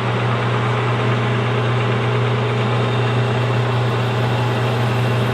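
Metal lathe running steadily while turning down the outside diameter of an aluminum workpiece: a steady motor hum under an even cutting noise.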